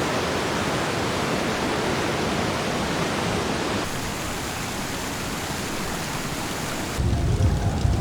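Steady rushing, hissing noise of spraying water. It changes abruptly about four seconds in, and near the end a deep rumble joins it.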